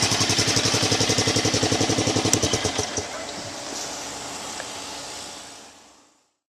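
ATV engine, the single cylinder of a Polaris Sportsman 500, idling with an even rapid putter of about ten beats a second. It drops in level about three seconds in and fades out by about six seconds.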